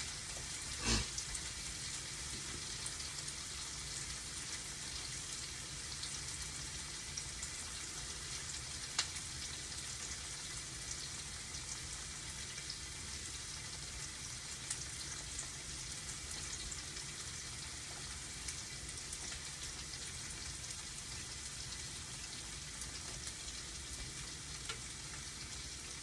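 Tofu pieces frying in oil in a small pan: a steady sizzle with fine crackling. A knock about a second in, and a sharper click at about nine seconds.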